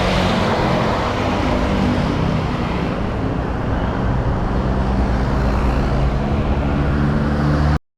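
Road traffic noise: motor vehicle engines humming steadily over a constant rush of road noise. The sound cuts out briefly near the end.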